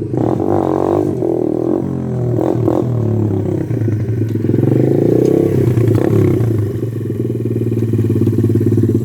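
125cc pit bike's single-cylinder engine revving up and dropping back twice, with a few short clunks, then settling into a steady idle about seven seconds in.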